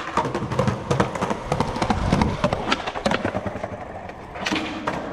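Skateboard rolling on concrete with a string of clattering knocks and thuds from the board hitting and landing, opening with a sharp clack.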